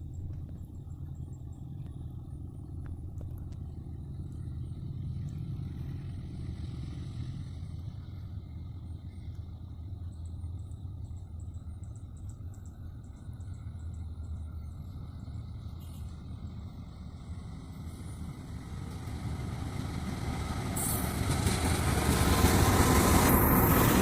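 Low steady engine rumble that swells to loud in the last few seconds as a diesel-hauled train approaches, with a rising hiss of wheels on the rails near the end.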